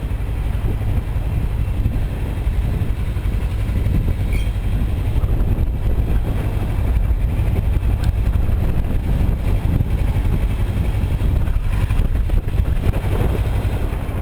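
Heavy wind noise buffeting the microphone on a moving 2008 Kawasaki Versys 650, with the bike's parallel-twin engine running underneath. The rumble holds steady throughout.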